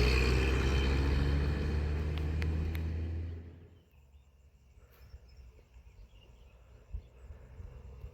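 A motor vehicle's engine running with a low steady hum, fading away about three and a half seconds in, after which only faint outdoor ambience with a few light clicks remains.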